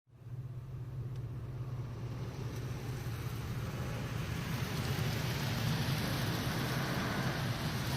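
Road vehicle driving: a steady low engine hum under tyre and road noise that builds gradually.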